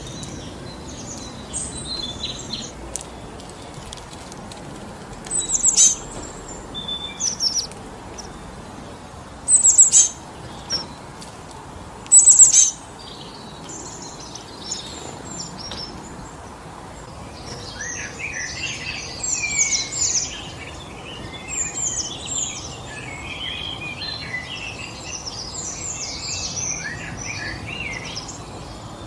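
Wind blowing steadily through a forest while songbirds chirp: three loud, sharp calls a few seconds apart in the first half, then a busier run of many overlapping chirps in the second half.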